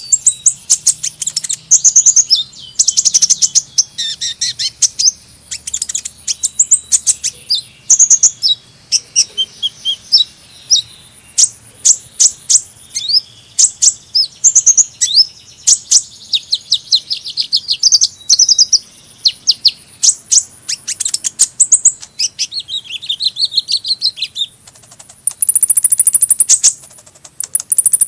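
Sunbird (Indonesian 'kolibri') singing: a continuous stream of rapid, high-pitched chirps and fast twittering trills with hardly a pause.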